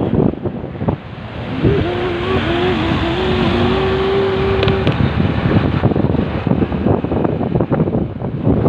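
Motorcycle ride in traffic: wind buffets the microphone over the running engine. From about two seconds in, a pitched engine drone wavers briefly, then holds steady for about three seconds before fading back into the wind noise.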